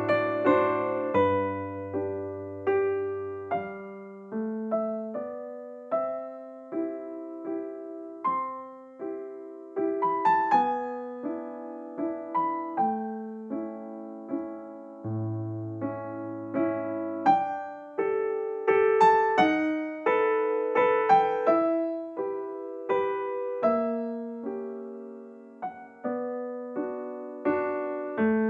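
Background piano music: a gentle melody of struck notes that ring and fade, with a low bass line at times.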